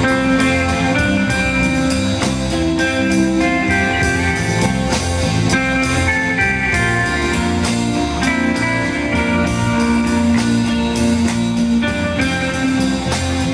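Guitar band playing live: an instrumental passage of held and gliding guitar notes over a steady beat, with no singing.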